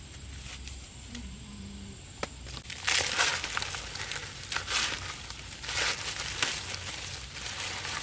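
Rustling and crinkling of plant material being handled, in repeated bursts starting about three seconds in.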